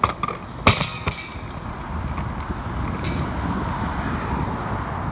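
Riding noise picked up by a camera in a holder on a moving bike: a few sharp knocks in the first second and one near three seconds, over a steady rushing that builds from about two seconds in.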